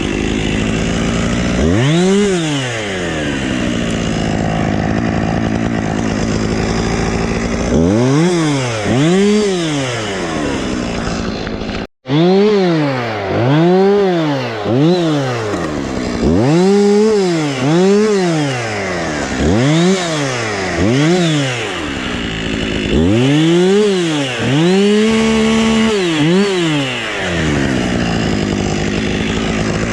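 Husqvarna two-stroke chainsaw idling and revved up again and again in short bursts, about a dozen times, each rev rising and falling in pitch. The sound drops out for an instant about twelve seconds in.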